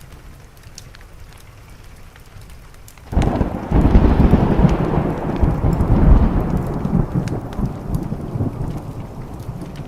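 Steady rain, then a clap of thunder breaks about three seconds in and rolls on as a deep rumble, slowly fading.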